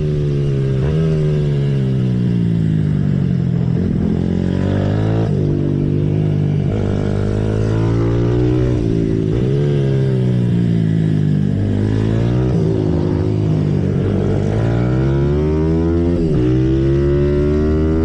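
Symoto 140cc pit bike's single-cylinder four-stroke engine on track, revving up and dropping back over and over as the rider accelerates and shifts.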